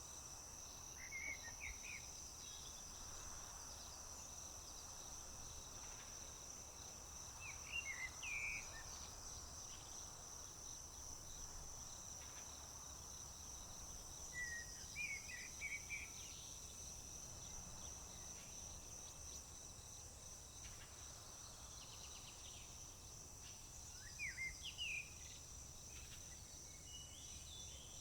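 A steady high-pitched trilling of crickets, with a songbird singing a short phrase four times, about every seven seconds.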